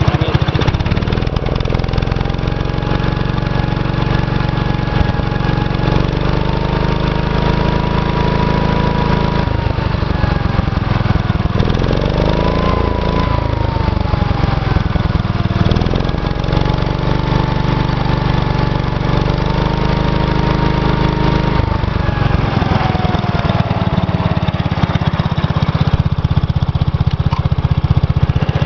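Gravely 810 tractor's 10-horsepower Kohler cast-iron engine running steadily, with a whine in its sound that rises and falls about twelve seconds in and again near twenty-two seconds.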